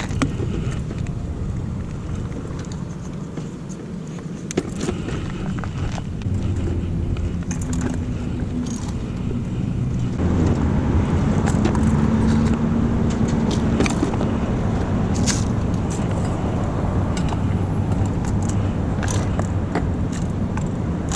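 A car engine running close by in a parking lot, growing louder about ten seconds in, with scattered light clicks over it.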